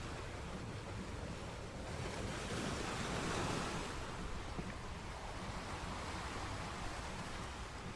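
Sea surf: waves breaking and washing in as a steady rushing noise, with one wave swelling up and easing off a few seconds in.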